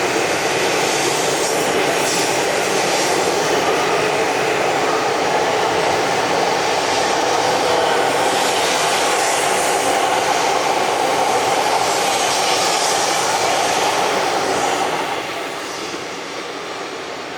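Tohoku Shinkansen train running past along the platform: a loud, steady rushing roar that drops off about fifteen seconds in.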